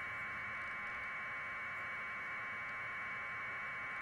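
Steady, even static hiss with no change in level, with no other distinct sound.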